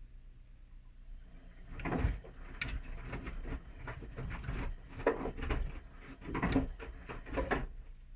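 Whirlpool washing machine in its main wash, turning the wet laundry: a run of uneven sloshing and soft thumps that starts about two seconds in and stops shortly before the end, over a low steady hum.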